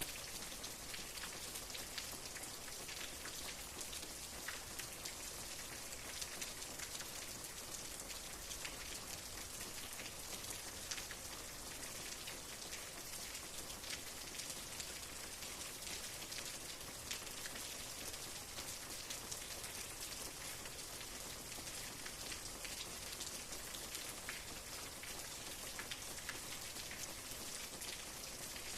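Steady rain, a continuous hiss of falling rain sprinkled with many small drop ticks.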